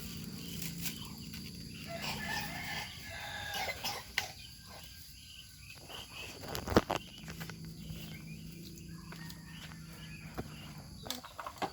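Domestic fowl calling and clucking at intervals, with one sharp knock about halfway through.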